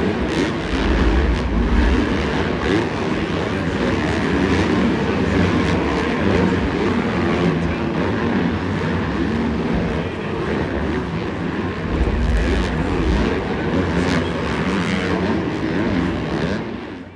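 A pack of supercross dirt bikes racing, their engines revving up and down without a break. The sound cuts off suddenly at the very end.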